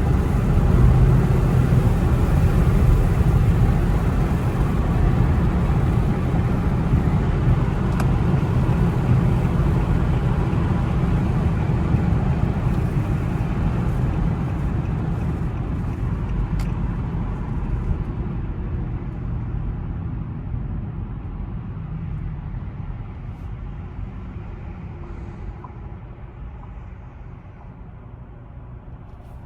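Road and engine noise of an Infiniti car, heard inside the cabin while driving: a steady low rumble that grows steadily quieter and duller through the second half, as the car slows.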